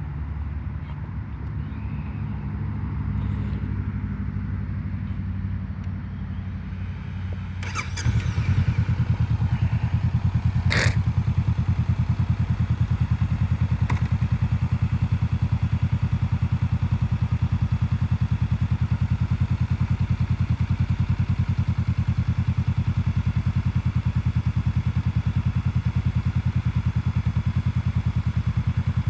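Motorcycle engine idling, then about eight seconds in it gets louder and runs on steadily at a slightly faster, heavier beat. A couple of sharp clicks come around that change.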